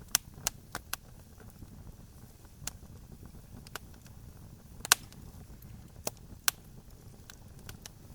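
Wood campfire crackling: irregular sharp pops and snaps, about ten of them, the loudest near the start and around five and six and a half seconds in, over a low steady rumble of the burning fire.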